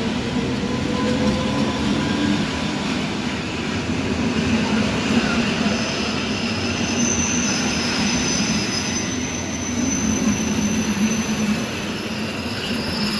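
A train running through the station with a steady, loud rumble of wheels on rail. A thin high-pitched metallic squeal from the wheels joins in about halfway through and holds.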